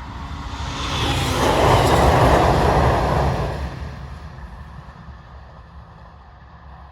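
A Yamagata Shinkansen train passing at speed: a rushing noise with a deep rumble underneath that builds for about two seconds, peaks, then fades away as the train recedes.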